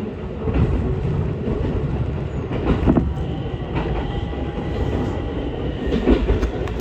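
Electric train running, heard from inside the carriage: a steady rumble of wheels on the rails, with a few knocks as the wheels cross rail joints, a pair of them near the middle.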